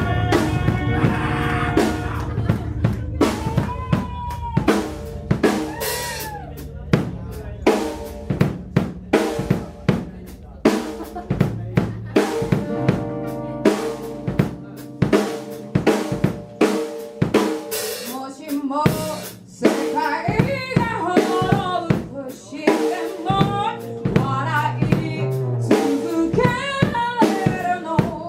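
Band music led by a drum kit playing a steady beat on snare and bass drum, with pitched melodic lines over it that rise and fall.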